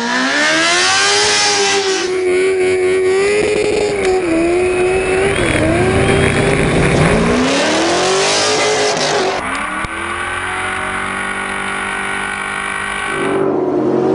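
Engine of a drifting vehicle revving hard, its pitch swinging up and down as the throttle is worked, with stretches of tyre squeal.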